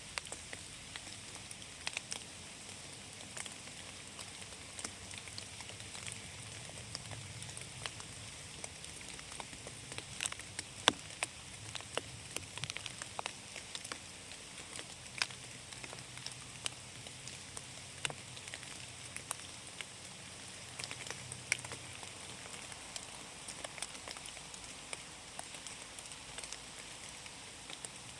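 Rain falling in a forest: a steady hiss of rain with irregular sharp taps of single drops landing close by, one louder tap about eleven seconds in.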